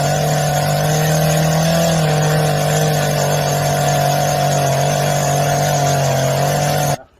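A loud, steady engine drone with a slightly wavering pitch that cuts off suddenly near the end.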